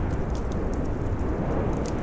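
Storm wind blowing in a steady low rumble, with a wood fire crackling in irregular small pops and snaps over it.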